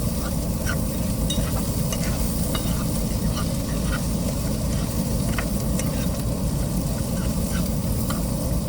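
Bologna and onion sizzling in a frying pan while being stirred, with scattered light clicks of the utensil against the pan.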